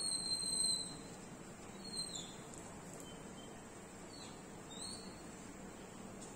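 A bird calling: one long high whistled note near the start, then a few short falling whistles, over a faint steady room hiss.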